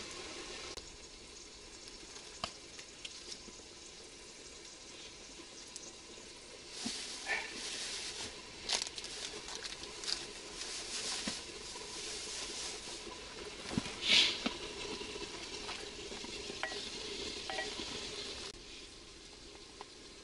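Food sizzling in a hot Afghan cauldron over a gas burner, coming in irregular spurts through the middle, the loudest about fourteen seconds in, with small knocks and rustling as vegetables are handled and dropped in.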